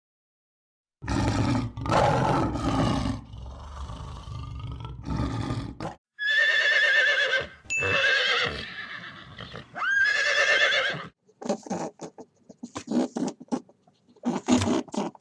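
Horse neighing: low, rough calls about a second in, then two long high whinnies with a wavering pitch, followed by short choppy calls near the end.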